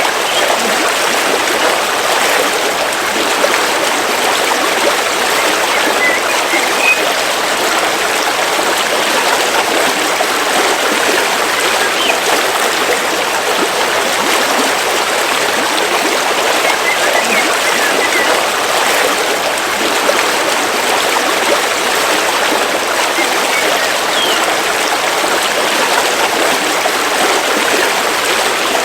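River water flowing steadily through a forest in a continuous, even rush. A few faint short bird chirps come through now and then.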